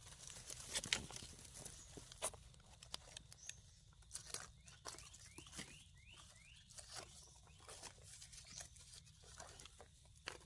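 Dry leaf litter and twigs crackling and rustling in irregular small clicks, as someone moves about on the forest floor. A quick run of short rising chirps comes about five seconds in.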